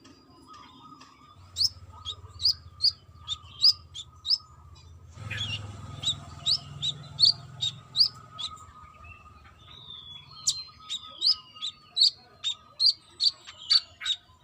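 Brown-throated sunbird (kolibri kelapa) singing a quick series of short, sharp, high chirps, about two or three a second, in two runs with a short break about five seconds in.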